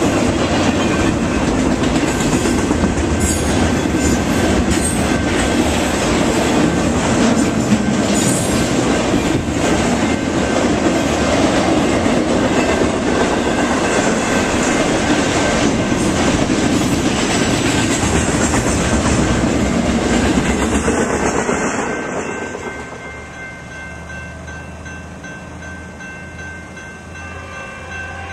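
Intermodal freight train carrying highway trailers on flatcars rolling past, its wheels clattering over the rails. About 22 seconds in, the last cars go by and the rumble falls away, leaving the steady ringing of the grade-crossing bell.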